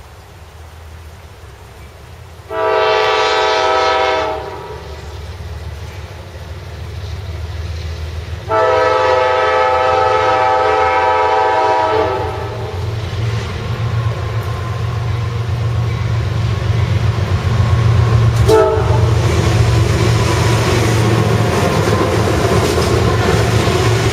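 CSX freight diesel locomotive's air horn sounding two blasts, a short one and then a longer one, as the train approaches. The locomotives and intermodal cars then rumble past, growing louder, with rail and wheel noise and a brief squeal about three quarters of the way through.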